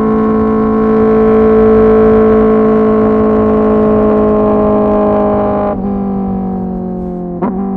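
Kawasaki ZX-10R's inline-four engine through an SC-Project CRT exhaust, running at high, steady revs under way, its pitch easing slowly down and stepping lower about six seconds in and again near the end.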